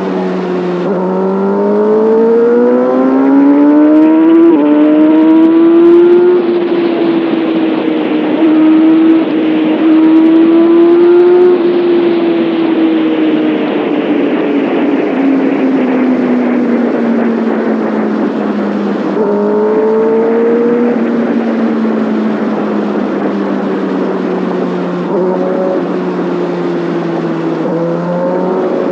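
Kawasaki Ninja ZX-6R's inline-four engine and exhaust under way. The revs climb over the first few seconds, hold high, then ease off slowly, with a short rise in revs about twenty seconds in and again near the end. A rushing noise swells while the revs are high.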